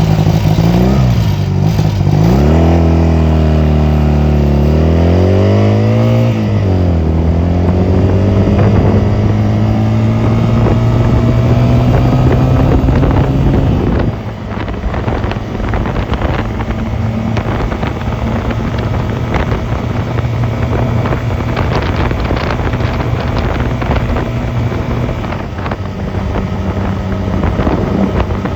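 Honda 250cc motorcycle engine pulling through the gears, its pitch climbing and dropping back at each shift over the first few seconds, then rising steadily. About halfway through the throttle is eased and a lower, steadier engine note runs on under wind noise on the microphone.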